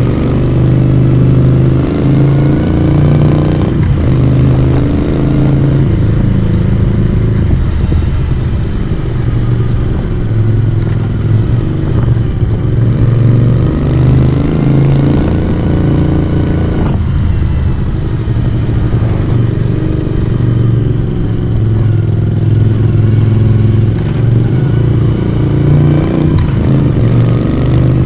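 Moto Guzzi V35's small transverse V-twin engine and exhaust running on the move, its pitch climbing and dropping back sharply several times.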